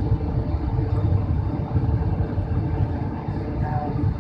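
Steady low rumble of an airliner cabin in flight: the drone of the engines and rushing air, with no change in level.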